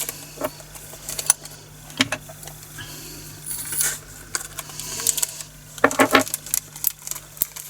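Small plastic diamond-painting drills rattling and clicking as they are handled and poured into a storage container, with scattered sharp clicks and a brief rushing hiss partway through.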